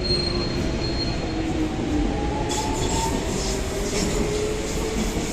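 London Underground Jubilee line train pulling into the platform, its traction motors whining in several tones that glide in pitch as it slows, over wheel and track rumble. A short high squeal near the start and a hiss from about halfway through join in.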